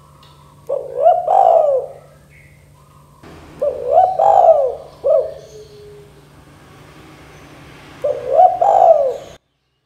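Spotted dove (tekukur) cooing: three separate multi-note coo phrases, each a few seconds apart, with the sound cutting off suddenly near the end.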